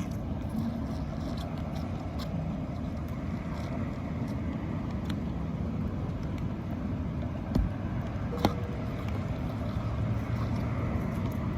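Steady low outdoor rumble, with two short sharp knocks about a second apart a little past the middle.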